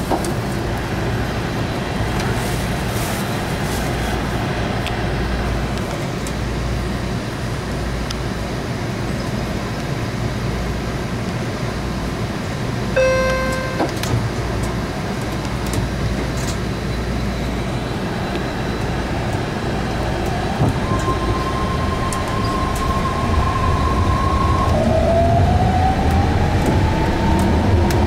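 BART train rumbling steadily, heard from inside the car. A brief beep comes about halfway through. Near the end a whine rises in pitch and the sound grows louder as the train gathers speed.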